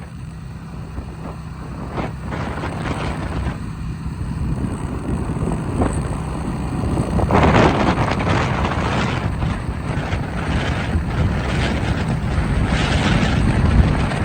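An engine running steadily, with wind rushing on the microphone; the sound swells noticeably about seven seconds in.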